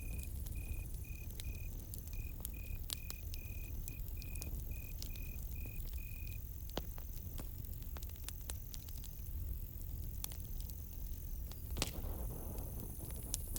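Campfire crackling, with many sharp pops over a low steady rumble. A cricket chirps in rapid pulsed trills until about halfway through, and a fainter, higher insect trill comes and goes.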